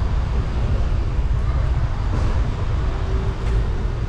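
Wind buffeting the microphone of a bicycle-mounted camera during a ride, a loud fluttering rumble over faint street noise.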